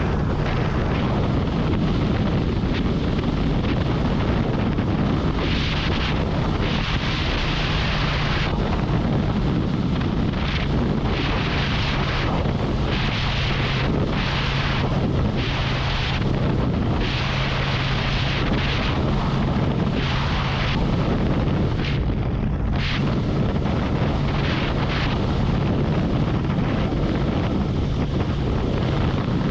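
Harley-Davidson Road Glide's V-twin engine running at a steady highway cruise, with wind rushing over the microphone. The wind hiss swells and fades every second or two.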